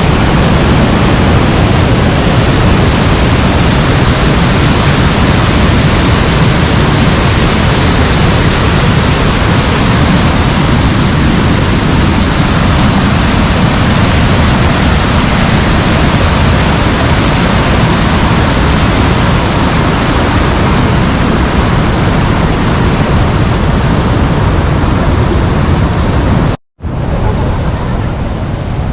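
Loud, steady rushing roar of a waterfall in full monsoon flow, an even noise with no breaks. It cuts out for a moment near the end and resumes a little quieter.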